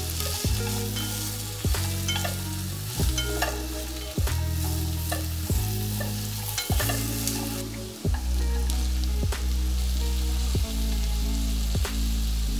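Sliced carrots and onion sizzling in oil in a pot as they are stirred with wooden chopsticks. Background music with a deep bass line and a steady beat, changing about every second and a quarter, runs underneath.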